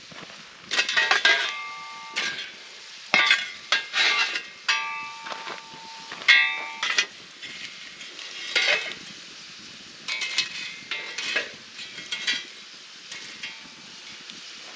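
Metal cookware and utensils clanking and scraping irregularly, several strikes ringing briefly like a struck pan.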